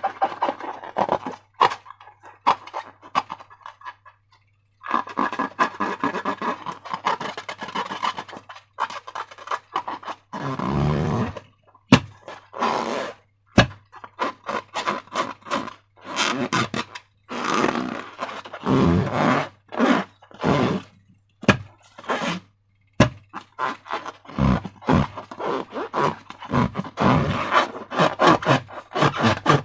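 Slime being worked by hand: irregular scraping and squishing strokes, separated by short pauses, with a few sharp clicks.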